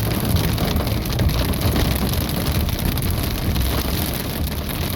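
Heavy thunderstorm rain pelting a vehicle in a steady, dense patter, over the low rumble of the vehicle's engine and tyres on the wet road.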